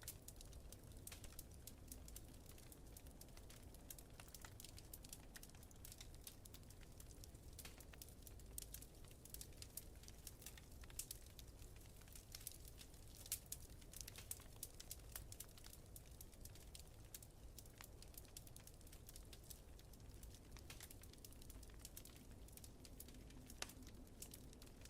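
Faint wood fire crackling, with frequent small sharp pops over a low steady rumble of wind.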